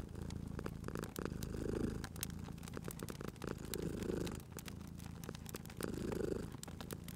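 Cat purring steadily, swelling about every two seconds with its breaths, over the sharp crackles and pops of a wood fire.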